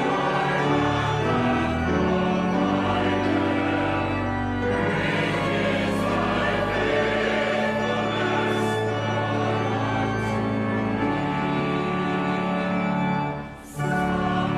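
Choir singing sacred music in held, sustained chords. The sound drops out briefly near the end and then resumes.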